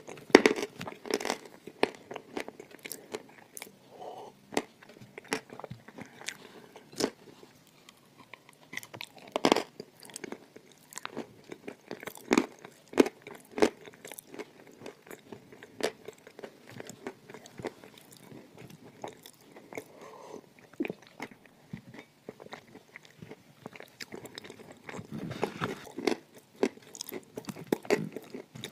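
A person chewing and biting mouthfuls of dry crushed clay close to the microphone: irregular sharp crunches, a few louder ones, growing denser near the end.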